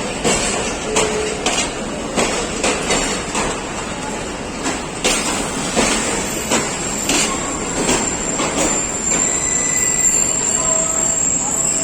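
Hazara Express passenger train rolling slowly into a station platform. Its wheels knock irregularly over rail joints and points, and a high steady squeal from the wheels grows louder in the second half as the train slows.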